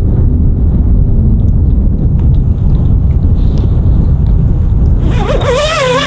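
Heavy blizzard wind buffeting the microphone, a loud, steady low rumble. About five seconds in, a wavering pitched sound rises over it.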